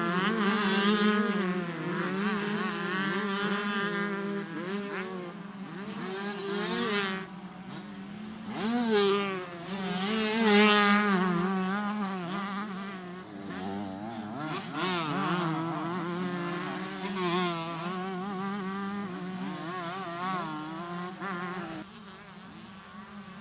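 Several 125cc two-stroke motocross bikes racing, their engines buzzing and revving up and down as the riders work the throttle. The sound is loudest about nine and eleven seconds in and drops off just before the end.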